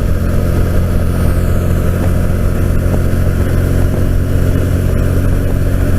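Can-Am Spyder RT at about 60 mph, picking up speed toward 65: steady wind rush and engine drone. It is heard through a helmet-mounted Sena 10C camera's microphone.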